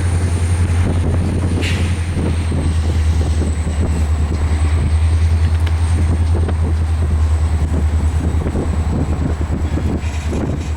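EMD diesel switcher locomotive running with a steady deep throb while moving freight cars, with a thin high whine above it.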